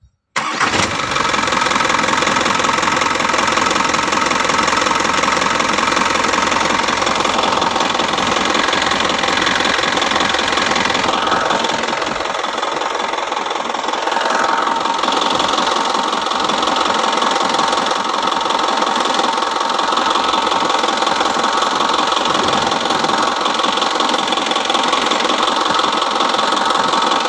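Dump truck's engine running steadily after starting abruptly just after the beginning, with a fast, even clatter.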